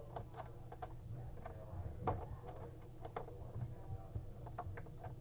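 Faint, irregular metallic clicks and taps of hand tools, such as an open-end wrench, working on faucet fittings, about a dozen light ticks in a few seconds.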